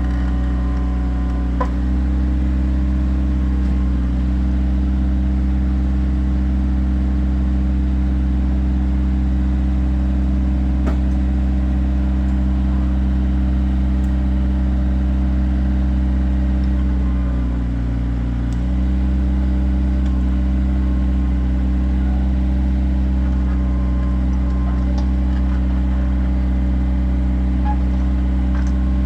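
Kioti diesel tractor engine running steadily under work, with a brief drop in engine speed about eighteen seconds in before it picks back up, and a few faint clicks and knocks.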